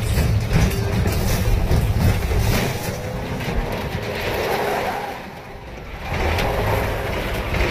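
A hearse's big engine running hard as the car crashes through brush and drives across rough ground, with cracks and knocks of breaking branches and bumps through the first three seconds. The engine briefly drops away a little after five seconds, then comes back strong.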